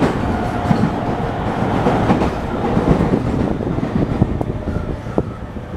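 Interior of an E231 series suburban electric train running: a steady rumble of the car with the wheels clacking over rail joints, easing a little near the end.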